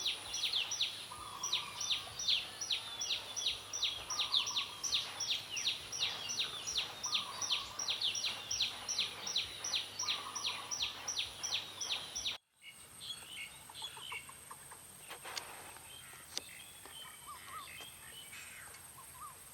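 Forest birds singing: one bird repeats a rapid series of high, down-slurred notes, about three a second, while another gives a lower short phrase every second or so. About twelve seconds in the recording cuts abruptly to a quieter one with scattered soft bird calls over a steady high whine.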